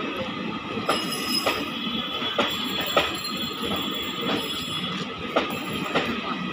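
Passenger train passing, its wheels clattering over rail joints in irregular sharp clicks, with a thin high wheel squeal above the rumble.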